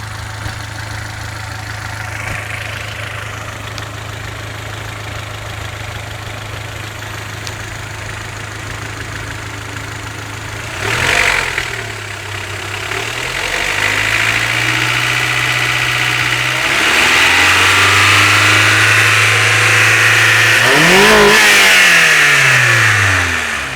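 Honda H22A8 2.2-litre DOHC VTEC four-cylinder engine idling steadily, then revved: a quick blip about halfway through, then held at raised revs that grow louder, and a last rise and fall in revs near the end as it drops back toward idle.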